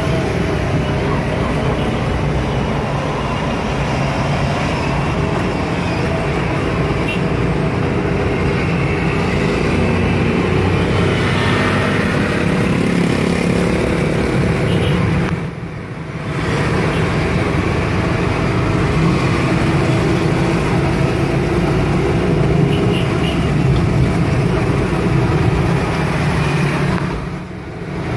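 Bajaj Qute 220cc's small single-cylinder engine running under way, heard from inside the cabin along with road and traffic noise. The noise drops briefly twice, about halfway through and near the end.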